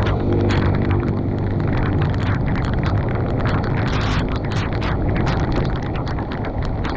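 Wind rumbling on the microphone over steady storm noise, with many sharp taps and clicks throughout.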